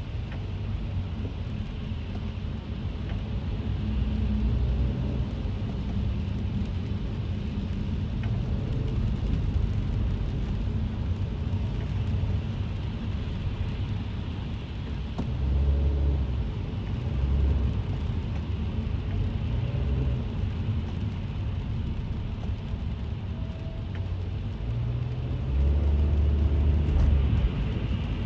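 Cabin sound of a car driving in the rain: a steady low rumble of engine and tyres on the wet road under a hiss of rain on the car. The rumble swells louder a few times, most of all near the end.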